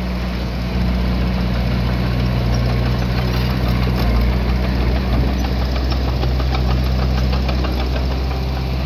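Diesel engine of earthmoving machinery running steadily under light load, getting a little louder about a second in, with a fast ticking clatter over it.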